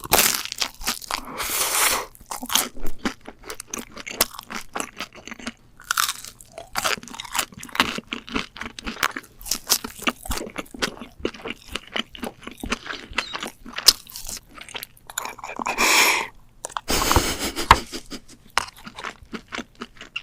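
Close-miked eating: repeated crunchy bites and chewing of crisp food, with many sharp crunches and a few longer, drawn-out crunching stretches.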